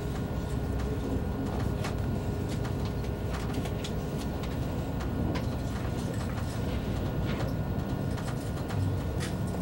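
Steady low rumble inside the passenger car of an ICE high-speed train, with scattered light clicks and rattles.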